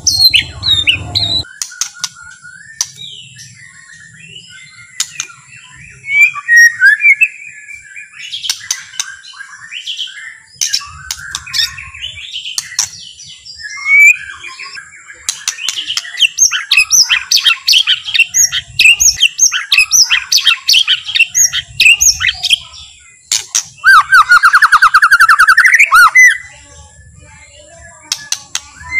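White-rumped shama (murai batu) singing a long, varied song of whistles, chirps and harsh notes, busier in the second half, with a fast rattling trill near the end. A faint steady high whine runs underneath.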